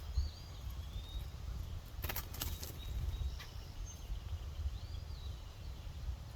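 Short arched whistling bird calls, one near the start and one near the end, over a steady low wind-like rumble, with a quick cluster of sharp clicks about two seconds in.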